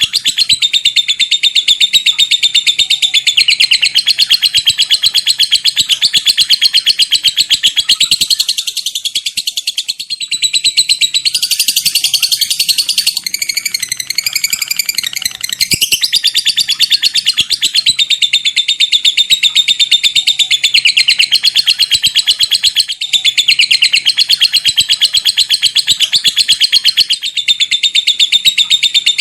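Lovebird singing a long, unbroken, high-pitched chattering trill of very rapid ticking notes (the "ngetik ngekek panjang" style). The trill shifts briefly into a different phrase roughly midway, then returns to the rapid chatter.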